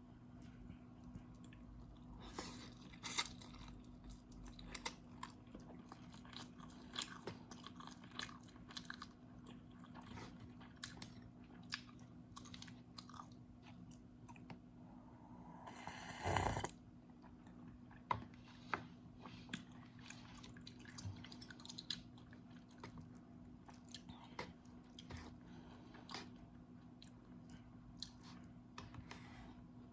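Close-miked eating of instant noodles: steady chewing with many small crunches and mouth clicks, and one louder rush of noise lasting about a second, about halfway through.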